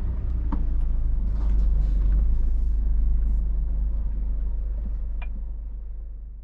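Scania R500 truck's V8 engine and road noise, a steady low rumble with a couple of light clicks, fading out near the end.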